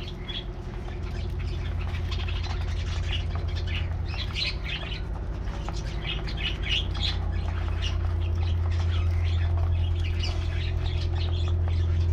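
A flock of budgies chattering, with short chirps and squawks coming in clusters, over a steady low hum.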